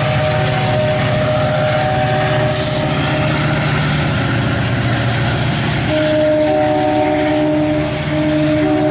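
MARC commuter train running past: a loud, steady rumble and rail noise from the train, with a set of steady tones joining about six seconds in.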